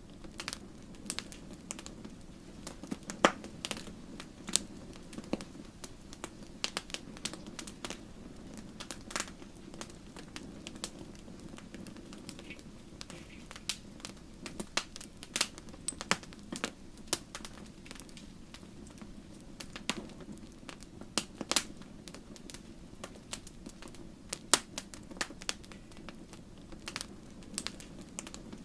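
Wood burning in a fireplace, crackling: irregular sharp snaps and pops, a few louder than the rest, over a steady low background.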